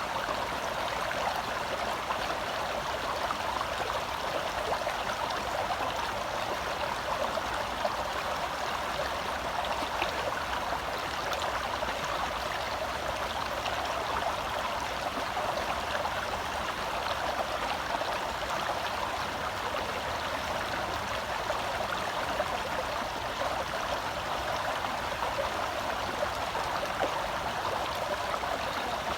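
Forest stream flowing over rocks: a steady, even rush of water with no pauses.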